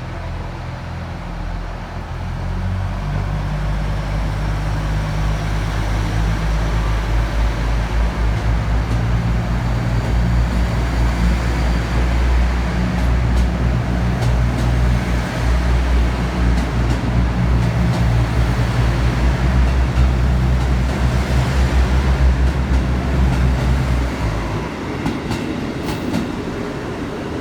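KiHa 85 series diesel railcar's engines growling under power as the train pulls away, a deep drone that strengthens over the first few seconds and holds steady. Near the end the engine note cuts off suddenly, leaving the clickety-clack of wheels over rail joints.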